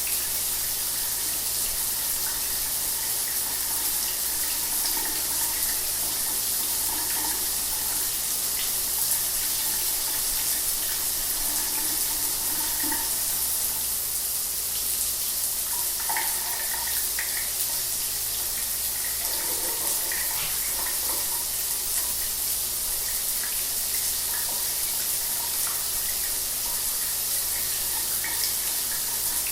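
Shower water running steadily, a constant spray hiss with small irregular splashes.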